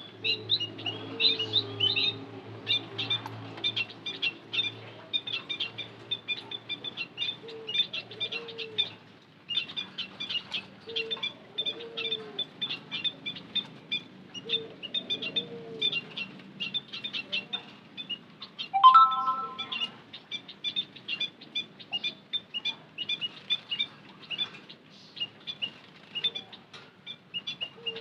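A flock of white-headed munias chirping rapidly and almost without pause in short, high, thin notes. Lower arched coo-like calls recur every few seconds underneath, and a short, louder call with several overtones stands out about two-thirds of the way through.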